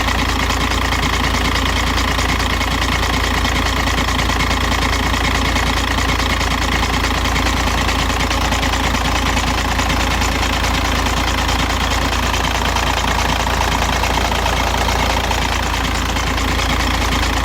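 2006 Volkswagen Jetta TDI's 1.9-litre four-cylinder turbodiesel idling steadily, with the strange noise that comes from the bottom of the engine when it is cold and goes away once warm; the owner has not traced it, the oil pump having looked fine.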